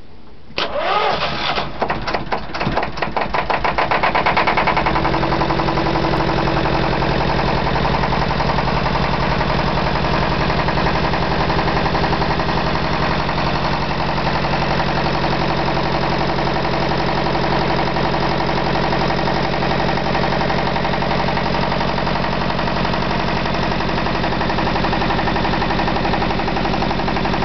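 Petter PH2WRMR two-cylinder marine diesel engine starting. It is cranked over about half a second in and catches, with rapid knocking that builds over a few seconds. It then settles into a steady, even idle.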